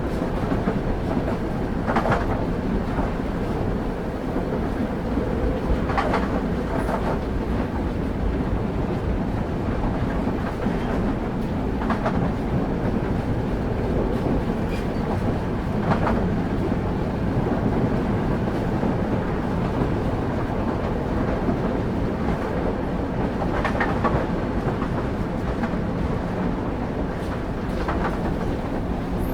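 Railway carriage wheels running steadily on the rails, heard from on board the train: a continuous low rumble, with a clack over the rail joints every few seconds.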